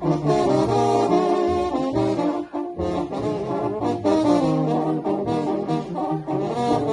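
Sinaloan banda brass band playing a song: trombones and trumpets carry the melody in harmony over a tuba bass line that moves note by note, with occasional drum hits.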